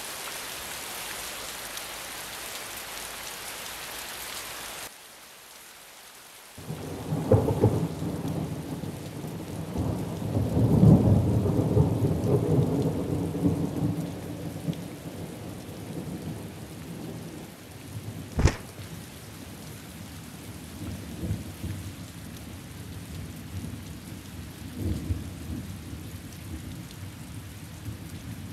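Storm sound effect: steady rain hiss, then a long rumble of thunder that swells and slowly dies away, with a single sharp crack about two-thirds of the way through.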